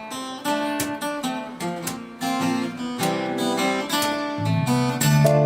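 Acoustic guitars start an instrumental intro with quick strummed and picked chords, and a low bass line comes in about four seconds in.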